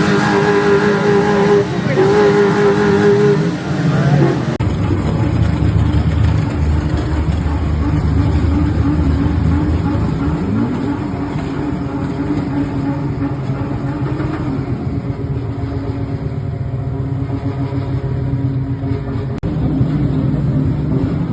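Car engines revving: in the first few seconds an engine is held at high revs twice at a steady pitch, then drops. After a cut, engines run and accelerate, their pitch rising.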